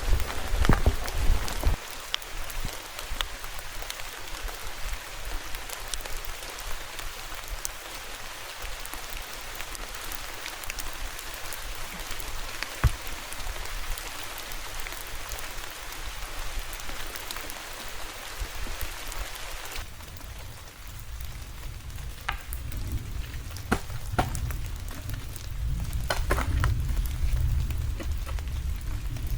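Rain falling steadily, with scattered sharp drop ticks. About two-thirds of the way through, the rain hiss thins and a low rumble comes up.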